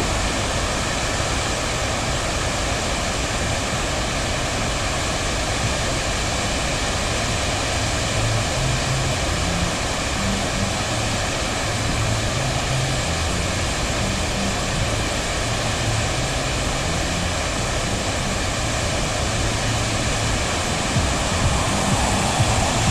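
Steady, even rush of a waterfall, with no change throughout.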